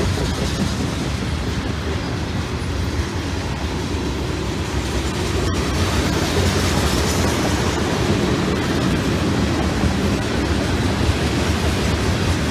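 Freight train passing close by, a steady, loud noise of locomotives and wheels on the rails.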